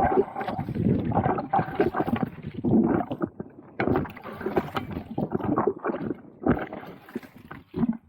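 Kayak paddling: the paddle blades dip and splash in the water, with gurgling water in irregular surges.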